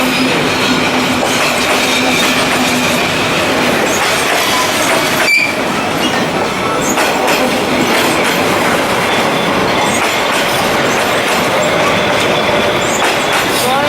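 Train passing at close range: a loud, steady rumble of rolling wheels on the rails, with a few faint high squeals from the wheels.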